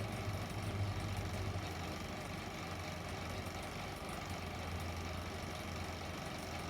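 Steady low hum with an even hiss from the playback of a 16mm sound film, with no music on the track.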